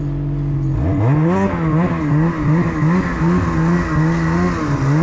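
Snowmobile engine idling steadily, then revving up about a second in as the sled pulls away, and running on with its pitch repeatedly rising and falling.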